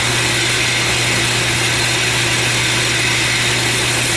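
Belt grinder running steadily at reduced belt speed, a constant motor hum under an even belt hiss.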